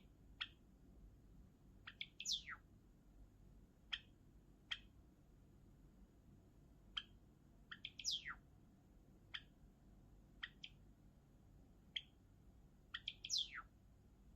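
Java sparrow singing: scattered single sharp chirps, and three times a quick run of chirps ending in a longer note that slides down in pitch.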